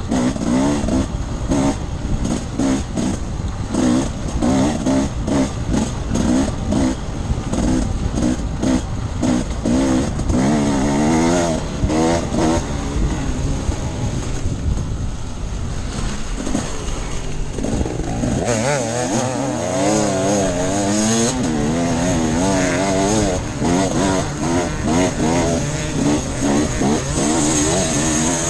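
Off-road dirt bike engine revving up and down as the throttle is worked constantly. It is choppy through the first half, then runs on in a longer warbling stretch from about two-thirds of the way in.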